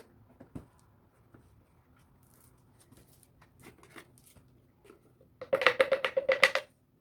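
Handling of a cordless vacuum's plastic dust canister, which holds freshly picked-up dirt: faint clicks and rustles at first, then about a second of rapid rattling taps near the end, roughly eight to ten a second.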